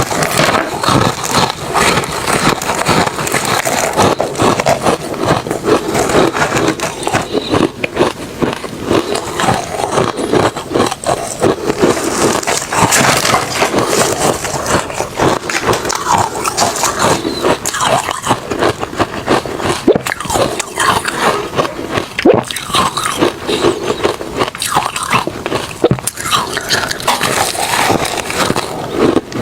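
Refrozen crushed ice mixed with shaved ice being bitten and chewed close to the microphone: a dense, unbroken run of crunches.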